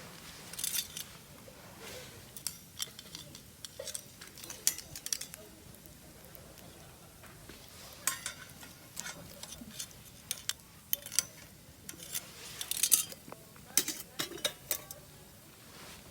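Metal cooking utensils and cookware clinking and scraping in irregular sharp clicks, busiest near the end.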